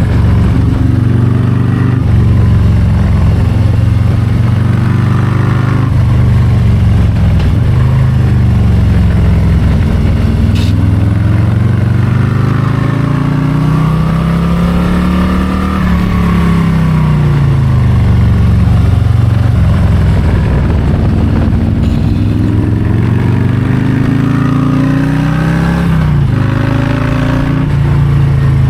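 Harley-Davidson Low Rider ST's Milwaukee-Eight 117 V-twin running hard on the road, its pitch climbing and dropping with the throttle; the revs rise to a peak about halfway through, and a second climb ends in a sudden drop near the end.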